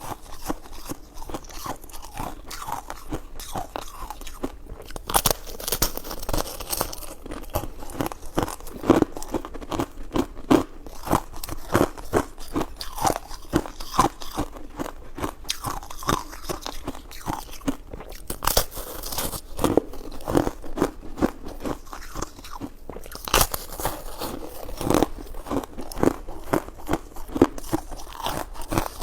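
Close-miked eating sounds: a person biting and chewing soft food, with many irregular wet clicks and smacks of the mouth and several louder bites along the way.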